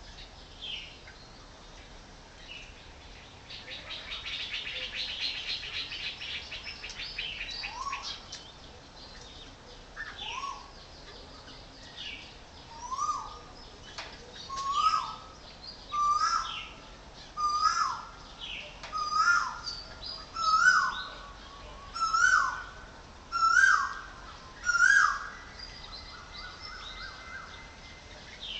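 Bird calls, which the uploader wonders may be woodpeckers: a fast, high rattling trill lasting about four seconds, then a series of about ten loud calls, each sliding down in pitch, repeated roughly every second and a half and growing louder.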